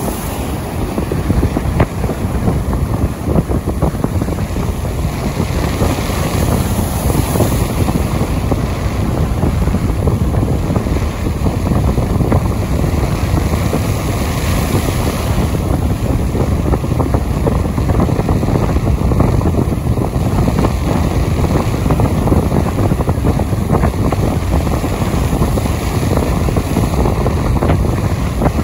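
Steady wind and rain, with heavy wind noise buffeting the microphone.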